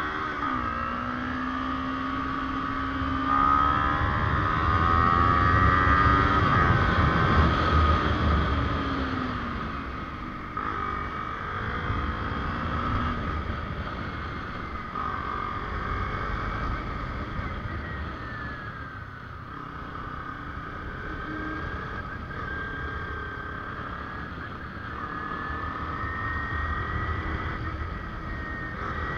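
Kawasaki Ninja 250R's parallel-twin engine running under way, its pitch climbing and dropping several times as the bike accelerates and shifts, with wind rumble on the microphone.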